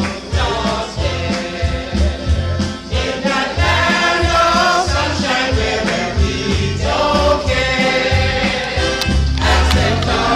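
Music: a choir singing over a band, with a bass line and regular drum beats.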